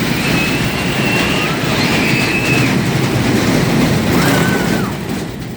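Amusement park ride running: a loud steady rumble with several high squeals, each held for about a second.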